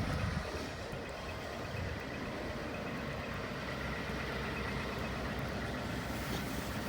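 Truck engine idling steadily in the cold, a low even rumble.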